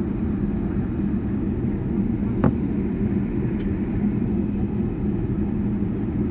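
Steady low rumble and hum of an airliner's cabin as the plane rolls on the ground after landing, with a single click about two and a half seconds in.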